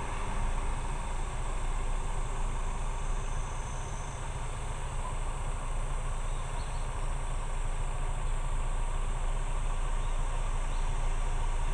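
Motorcycle engine running at a steady low rumble, with an even rush of wind and road noise over it.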